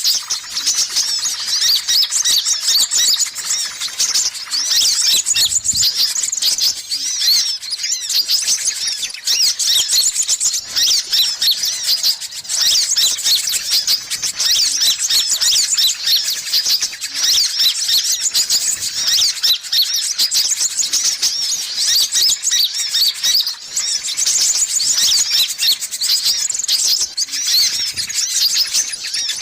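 Dense, unbroken high-pitched twittering and rapid chirps of sunbirds (kolibri ninja and kolibri kelapa), played as a lure call to draw in wild birds.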